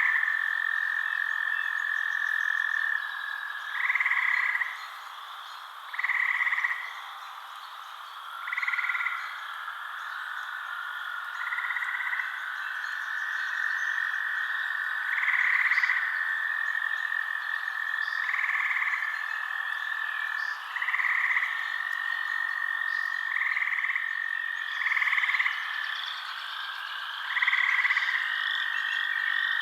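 Night chorus of frogs: a continuous high trill, with louder calls breaking in about every two to three seconds.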